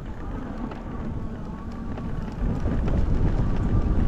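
Wind buffeting the microphone and the rumble of a folding e-bike's tyres rolling over a dirt road, growing louder about two seconds in, with a faint steady high whine underneath.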